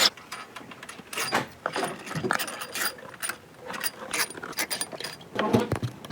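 Hand tools and metal parts clicking and clinking irregularly during work on an engine, with some light knocks.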